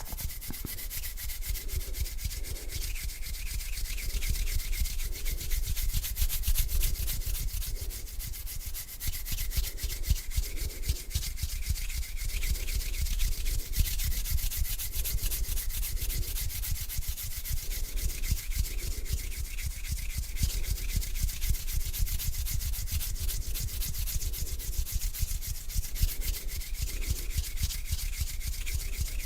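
Palms rubbing together close to the microphone in slow, even strokes about once a second, a dry crackling friction sound.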